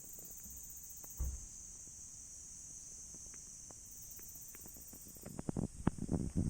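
Insects trilling steadily in a high, pulsing chirr, with a single soft low thump about a second in. Near the end a quick, irregular run of sharp knocks and crackles begins.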